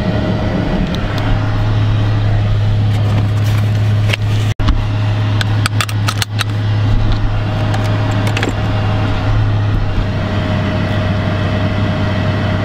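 Dodge Challenger's engine running, heard from inside the cabin as a steady low drone. A short run of sharp clicks and rattles comes about halfway through as the seatbelt is buckled.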